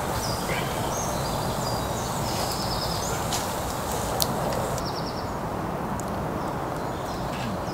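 Small birds chirping and trilling in short high calls over a steady rushing background, with a couple of sharp clicks around three and four seconds in.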